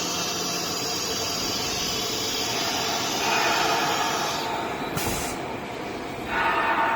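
Blue Elephant 1530 ATC CNC router running its automatic tool length measurement cycle: the axis drives move the gantry and spindle with a steady whirring hiss. The sound shifts about three seconds in and again a little past six seconds, with a short sharp hiss about five seconds in.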